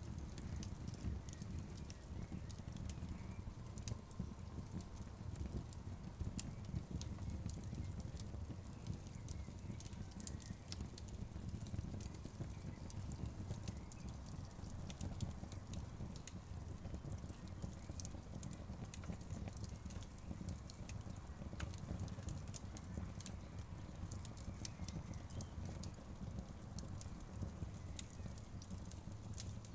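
Wood fire crackling: irregular sharp snaps and pops from burning logs over a steady low rumble.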